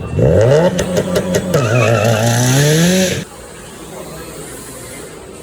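Car engine revving up and down while drifting, with a few sharp skid clicks over the first second and a half. It cuts off suddenly about three seconds in, leaving a low hiss.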